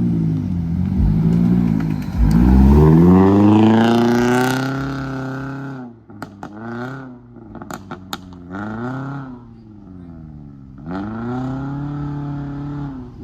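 Drag-racing car engine revving hard, its pitch rising for a couple of seconds and then fading as it pulls away. After that an engine is blipped in several short revs, rising and falling.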